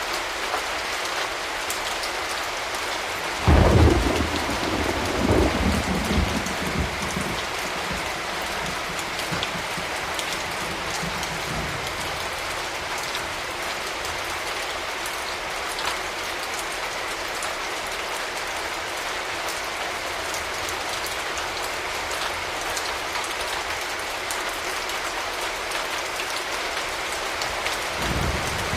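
Steady rain falling, with a sudden thunderclap about three and a half seconds in that rumbles on for several seconds before fading. Another low rumble of thunder begins near the end.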